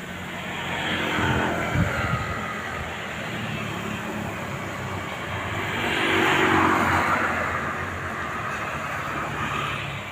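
Strong wind blowing in gusts, swelling to a peak about a second in and again past the middle, then easing.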